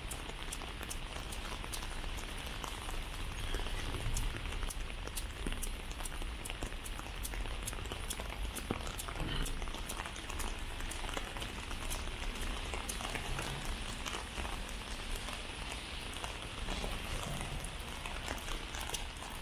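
Steady heavy rain falling on wet pavement, with many sharp close drop ticks through the hiss.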